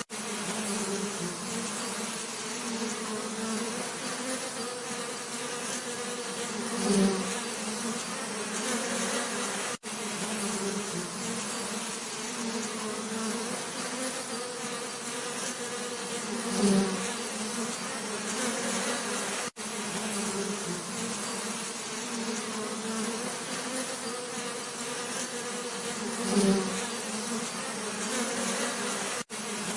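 Bees buzzing steadily, a low hum with a higher overtone. About every ten seconds one bee passes close and the buzz swells briefly, and there is a momentary cut-out in the sound about every ten seconds.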